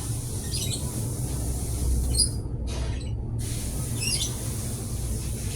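A steady low machine hum, with short high-pitched chirps or squeaks recurring about every one and a half to two seconds.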